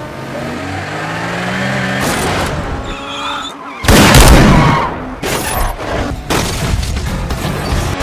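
Action-film sound mix from a motorcycle chase: an engine revving up over the first couple of seconds, then a loud boom about four seconds in, with music underneath.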